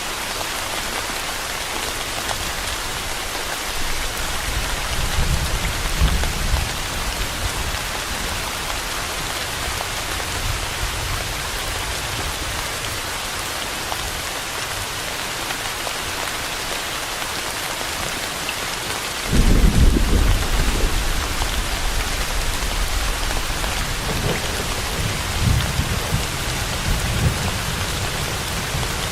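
Steady rain falling, with rolls of thunder: a low rumble swells a few seconds in, then a louder clap breaks suddenly past the middle and rumbles on for several seconds.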